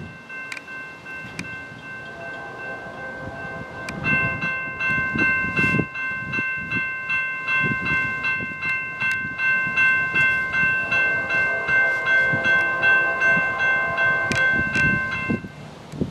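Norfolk Southern freight locomotive's multi-chime air horn sounding for the grade crossing: a steady chord, faint at first, much louder from about four seconds in, held until it cuts off near the end. Under it, the crossing signal's electronic bell rings in quick, even strokes.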